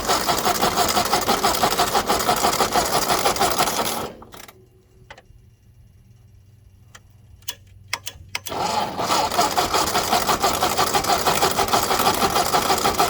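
Ford 841 tractor's four-cylinder gasoline engine being cranked by its starter in a quick, even rhythm without catching. The cranking stops about four seconds in, a few clicks follow, and it starts again about four seconds later. The owner traces the engine's refusal to run to the gas tank not feeding the new carburetor enough fuel.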